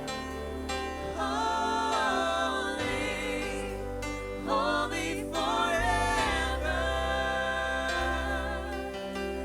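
Live worship band playing, with bass, keys and guitar under voices singing long held notes.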